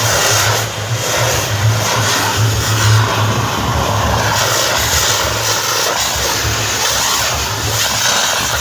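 A 'mosquito' (espadão) firework burning with a loud, steady rushing hiss, over a steady low drone.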